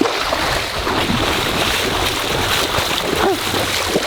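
Water splashing and trickling steadily.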